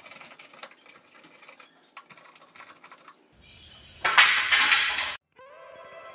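Rapid light clicks and taps, then a loud burst of noise lasting about a second that cuts off abruptly. Music starts near the end.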